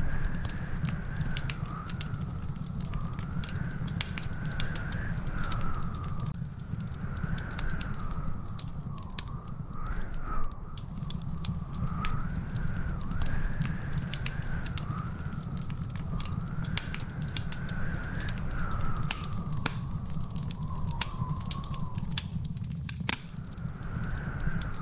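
Wood fire crackling in a fireplace: a dense, irregular run of small pops over a steady low rumble. A thin whistling tone wavers up and down behind it every second or two.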